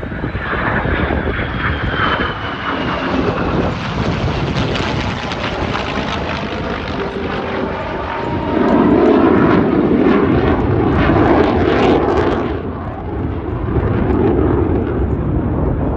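Lockheed Martin F-22 Raptor's twin turbofan jet engines during a demonstration pass, with a falling whine in the first few seconds. The jet noise swells to its loudest between about eight and twelve seconds in, then eases and swells again briefly near the end.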